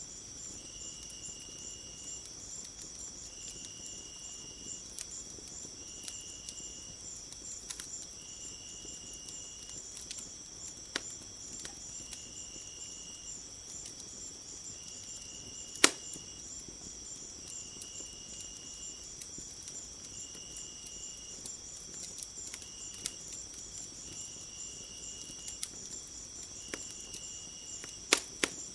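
Crickets chirping in a steady high chorus, with a lower insect trill repeating about every two seconds. A wood fire crackles over it with a few sharp pops, the loudest about 16 seconds in and two close together near the end.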